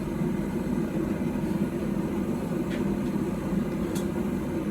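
A forge running with a steady low rushing roar, the blacksmith's fire being kept hot while the workpiece heats. A couple of faint light clicks sound partway through.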